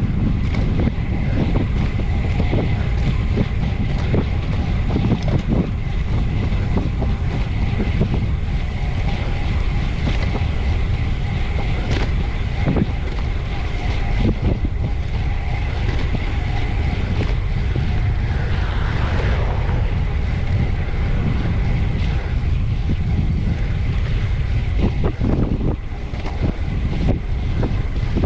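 Wind buffeting the microphone of a low-mounted camera on a bicycle ridden at full effort, over steady tyre and road noise. Occasional sharp knocks and rattles come through.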